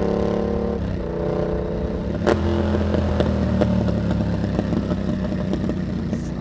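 Yamaha MT-07 parallel-twin engine running through an aftermarket carbon exhaust while riding: a steady note under throttle drops in pitch about a second in, a sharp click comes a little after two seconds, and then the engine runs on at a lower, steady note with light crackling ticks.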